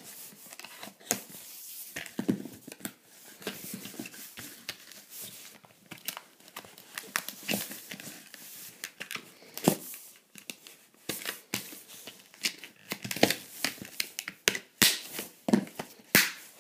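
Stiff plastic blister packaging being cut and pried open with a knife, crinkling and cracking in irregular bursts, with a few sharper snaps.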